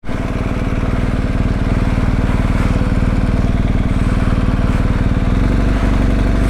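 Adventure motorcycle engine idling steadily while the bike stands still on a slope. A little past five seconds in, its low note changes.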